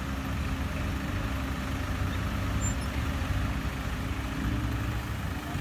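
Heavy diesel engines running steadily: a SANY 135-9 excavator and dump trucks working close by.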